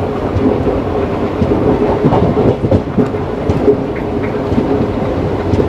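Passenger express train coaches running along the line: a steady rumble of wheels on the rails, with a sustained hum and scattered clacks from the track.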